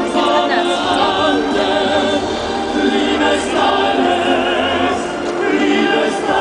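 A choir singing, several voices together, loud and steady.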